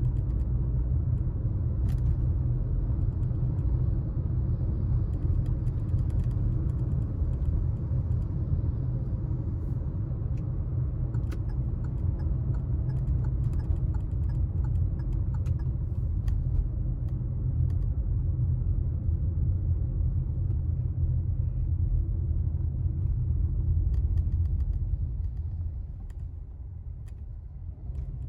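Car driving on town streets: a steady low rumble of engine and road noise, dropping off near the end as the car slows.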